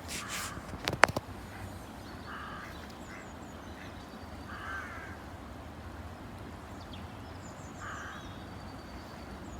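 Ducks quacking: three short, separate calls spread across a few seconds, with faint small-bird chirps and a sharp click or two about a second in.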